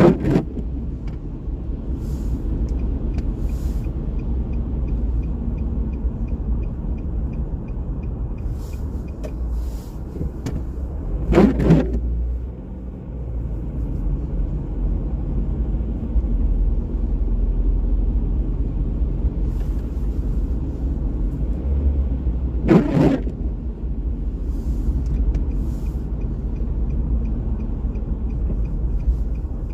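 Car driving on wet city streets, a steady low rumble of road and engine noise. Three brief louder whooshes stand out: one right at the start, one about eleven seconds in, and one about twenty-three seconds in.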